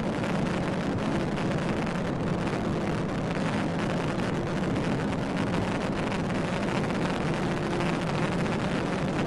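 Steady road and wind noise of a car driving at high speed, with a faint even engine hum underneath.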